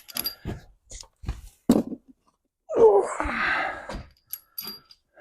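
Short metal clinks and knocks of steel washers and torsion-bar parts being handled, some with a brief high ring. A louder rasping sound lasts about a second near the middle.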